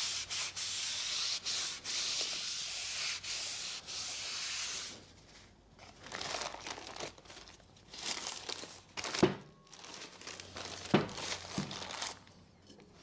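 Aerosol brake cleaner hissing as it is sprayed onto a new brake disc for about five seconds, stripping the factory anti-corrosion oil off the friction surface. The disc is then wiped down with scrubbing and crinkling sounds and a couple of sharp knocks.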